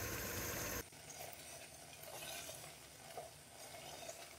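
Chicken pieces sizzling as they fry in ghee in a large pot, a steady hiss that drops abruptly to a faint level about a second in. After the drop, soft scrapes of a silicone spatula stirring the pieces.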